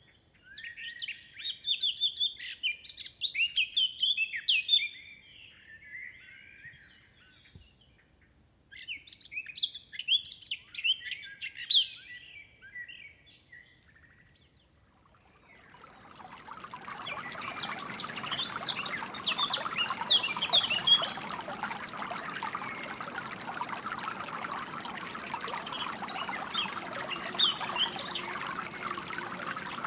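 Small songbirds singing in two bouts of quick chirps and trills with a quiet background between them. About halfway through, the steady sound of flowing water fades in and continues, with birds still chirping over it.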